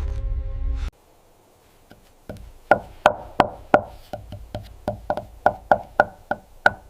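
Wood being hammered: a run of about fourteen sharp, hollow knocks, roughly three a second, beginning about two seconds in. A low steady drone cuts off suddenly about a second in.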